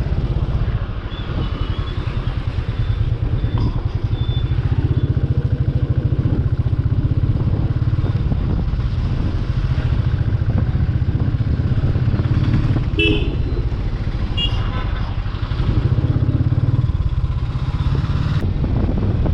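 Royal Enfield 350's single-cylinder engine running steadily under way, its exhaust pulses coming in a fast even beat.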